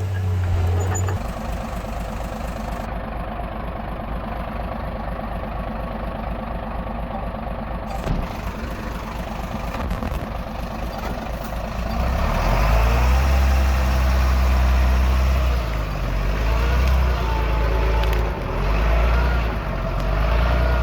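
Diesel engines of heavy earthmoving machinery running steadily. About twelve seconds in, a louder low engine drone takes over. A single sharp knock comes near the eight-second mark.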